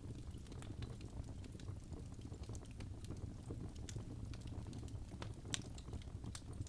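Wood fire crackling in a fireplace: frequent small sharp pops and snaps over a steady low rumble of the flames, with one louder pop about five and a half seconds in.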